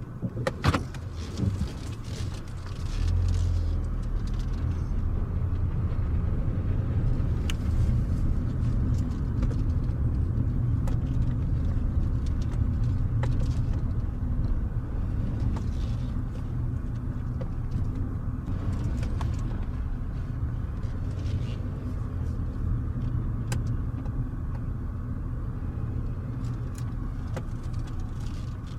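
A few sharp clicks and knocks, then a steady low car rumble that swells in about three seconds in and holds.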